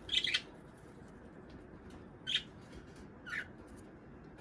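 Budgerigars chirping: three short, high chirps, one at the start, one a little past two seconds in and one a little past three seconds, with quiet between them.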